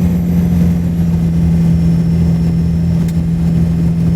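1996 Ford F350's 7.3 Powerstroke turbo-diesel V8 pulling hard up a steep grade in two-wheel drive, a steady low drone that holds one pitch.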